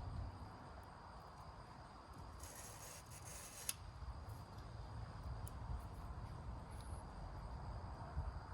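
Faint scraping of a small file across the engine's ignition contact points as they are cleaned, with one longer scrape about two and a half to three and a half seconds in, followed by a small click.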